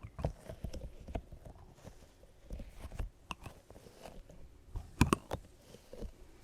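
ASMR trigger sounds close to the microphone: irregular soft clicks and crackles, with two sharp, louder clicks about five seconds in.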